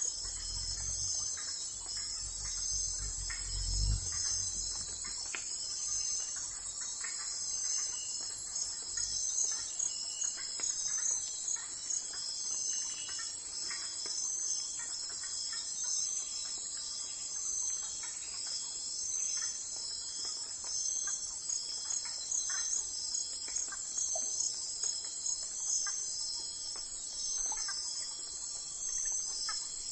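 Crickets chirping steadily in a dense, high-pitched chorus with a regular pulse. A faint low rumble runs through the first few seconds.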